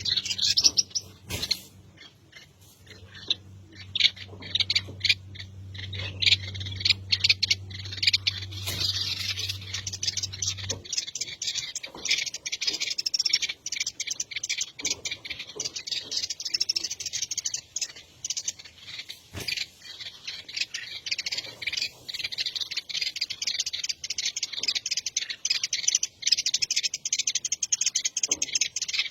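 Birds chirping rapidly and without pause in high, short, dense calls. A low steady hum sits under the chirping for the first ten seconds or so, then stops.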